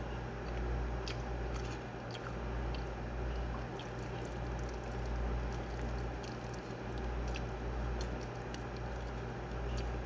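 A person chewing a mouthful of rice with fried eggplant, with soft wet mouth clicks scattered throughout, over a steady low hum.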